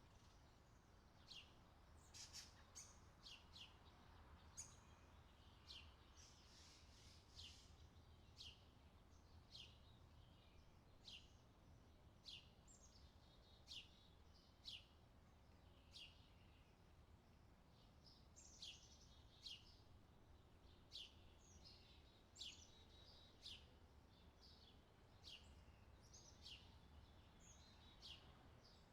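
Small birds chirping faintly: short, high, falling chips about one or two a second, over a steady low hum.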